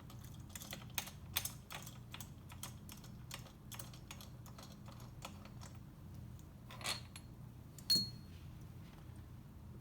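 Ratchet wrench clicking in quick, uneven strokes as bolts are run down into the jet drive's case. About eight seconds in, a louder metallic clink with a short ring.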